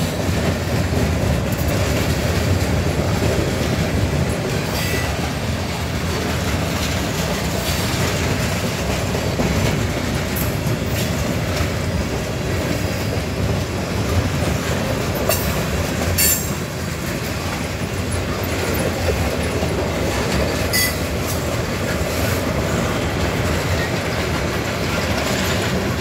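Freight cars of a manifest freight train rolling past with a steady rumble of wheels on rail and clickety-clack over rail joints. Brief high wheel squeals come a few times.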